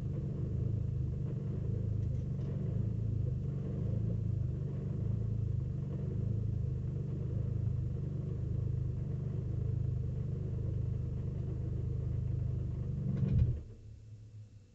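Race car engine idling steadily at about 1,000 rpm, then switched off: it cuts out suddenly about 13 and a half seconds in.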